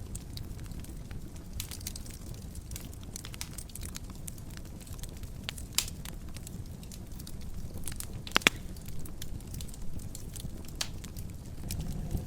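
Wood fire burning in a fireplace: a steady low rumble with scattered sharp crackles and pops, two of the loudest about eight and a half seconds in.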